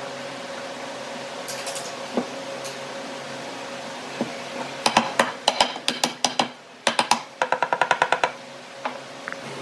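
Steady machine hum with a few fixed tones, and about halfway through a rapid run of sharp knocks or taps, quickening to about eight a second near the end.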